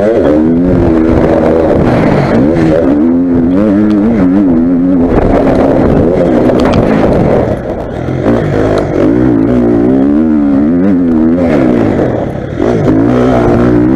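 Motocross bike engine being ridden hard: it revs up and falls back again and again as the rider works the throttle, and the throttle is briefly shut twice, about eight seconds in and near the end.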